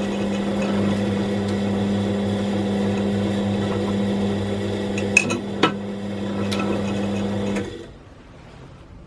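Machine tool running under power, driving an automatic tapping head as it taps a hole in stainless steel: a steady motor hum with two sharp clicks about five seconds in, then the motor stops near the end.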